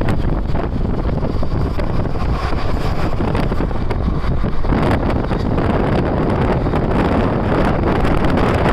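Passenger train running at speed, a steady rumble and rush with wind buffeting the microphone. About four and a half seconds in, the rushing grows louder and brighter.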